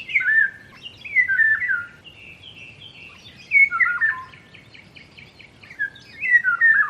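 An oriole singing: several short phrases of clear whistled notes that slide downward, with faint quick chattering between the phrases.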